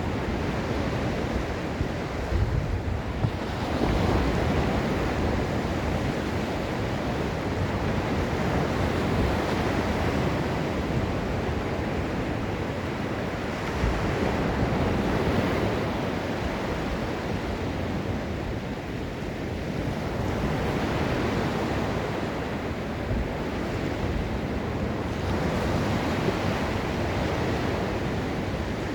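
Gulf of Mexico surf breaking and washing onto the beach in slow swells every few seconds, with wind buffeting the microphone as a low rumble.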